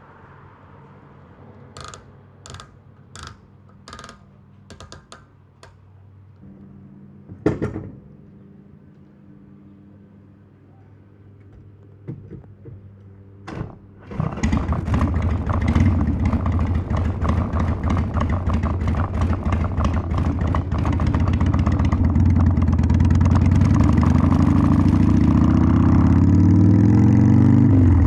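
A Harley-Davidson Sportster 1200's air-cooled V-twin is started about halfway through, after a run of sharp clicks and a knock. It settles into a loud, steady running note, and its pitch and level rise over the last few seconds.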